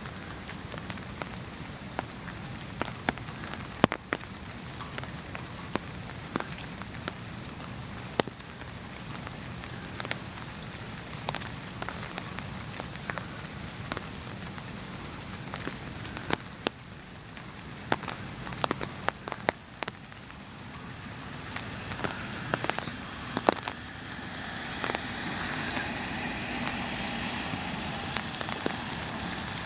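Rain falling, with many individual drops tapping sharply on a nearby surface over a steady hiss; the hiss grows louder about three-quarters of the way through.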